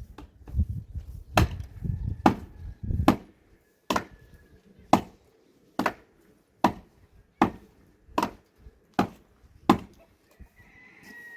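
A tool striking wood in steady, evenly spaced blows, about one a second, about a dozen in all; the first few strikes carry a heavier low thud.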